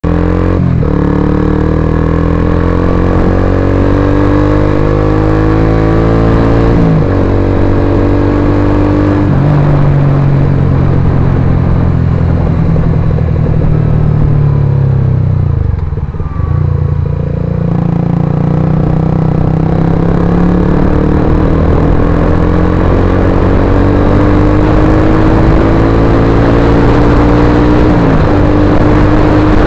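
Suzuki GSX-R150's single-cylinder engine running through an Akrapovic-style aftermarket exhaust while ridden. The engine pitch climbs slowly under acceleration and drops sharply at a gear change about seven seconds in and again near the end. Around the middle the pitch falls away and the sound dips briefly as the throttle closes, then builds again.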